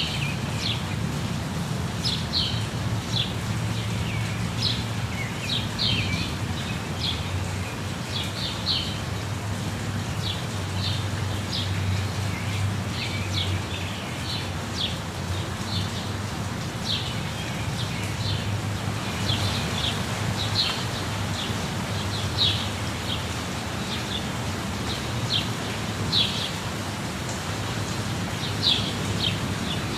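Birds chirping in short, high calls again and again over the steady rush of a waterfall with a low rumble.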